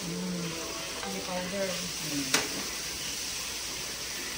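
Food sizzling in hot oil in an aluminium wok as a wooden spoon stirs it, with one sharp knock about halfway through.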